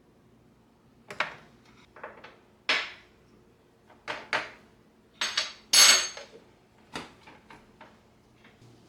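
Dishes and kitchen utensils being handled: a string of sharp clinks and knocks, the loudest about six seconds in with a brief ring, then a few lighter taps.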